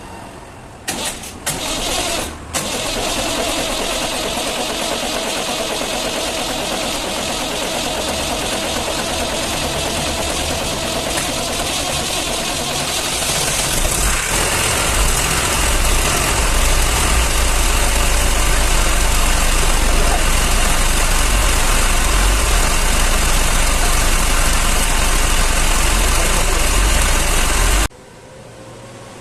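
Massey Ferguson 285 tractor's diesel engine starting after its cylinder head rebuild: a few short cranking bursts in the first couple of seconds, then it catches and runs steadily. About halfway through it gets louder, with a heavier, deeper rumble, and the sound cuts off suddenly near the end.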